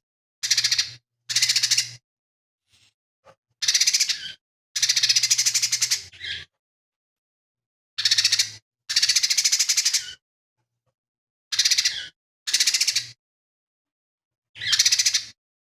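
Lesser green leafbird (cucak ijo mini) singing in short bursts of rapid, rattling high notes, about nine phrases with silent gaps between them.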